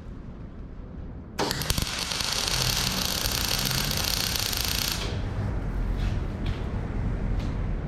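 Arc welder laying a short weld: a steady, dense crackle starts suddenly about a second and a half in, runs for about three and a half seconds and cuts off. Wind rumbles on the microphone underneath, and a few faint clicks follow the weld.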